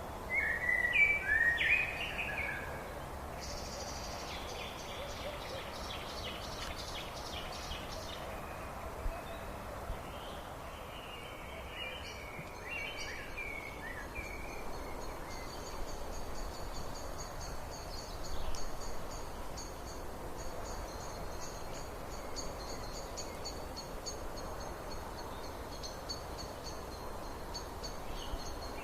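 Wild birds singing over a steady background hiss: a few loud gliding whistled phrases right at the start, then high rapid trills, one of them running on for over a quarter of a minute.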